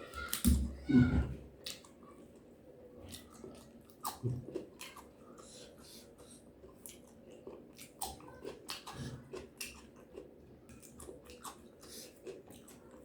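Person chewing and crunching food close to the microphone, with many small crackling bites. Two louder low thumps come about half a second and a second in.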